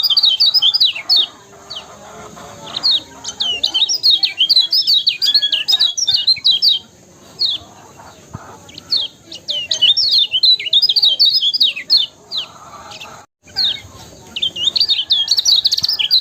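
Kecial kuning (yellow white-eye) singing: fast strings of high, twittering chirps that sweep up and down, coming in bouts of a few seconds with short pauses between.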